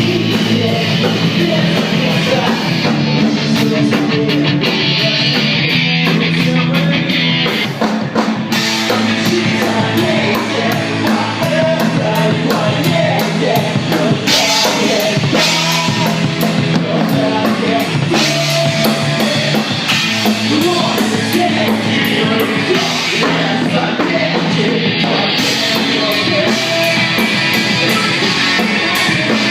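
Rock band playing live at a soundcheck: a loud, steady drum kit with cymbals under guitars, with singing.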